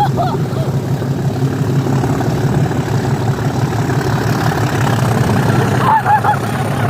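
Steady low rumble of a railway train's engine, with a few short high-pitched chirps about six seconds in.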